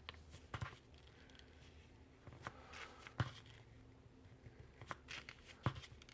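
Faint handling of a sheet of printer paper being folded: soft rustling with several short, sharp crinkles and taps as the fold is lined up and pressed into a crease.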